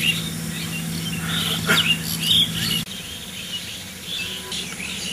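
Birds chirping in short, scattered calls over a steady low hum, which cuts off suddenly about three seconds in.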